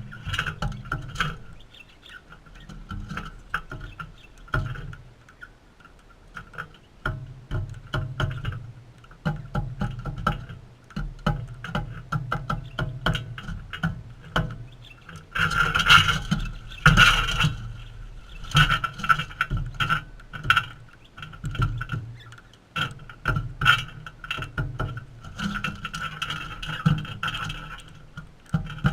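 Galahs feeding: a rapid, irregular clicking and crunching of beaks working on seed, loudest about halfway through.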